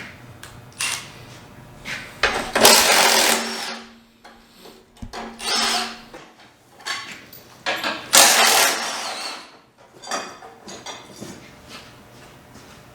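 Handheld power tool running in short bursts while bumper fasteners are being removed. The three loudest bursts come about two and a half, five and a half and eight seconds in, with shorter runs between.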